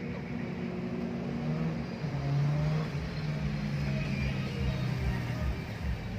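An engine running, its low hum shifting slightly up and down in pitch.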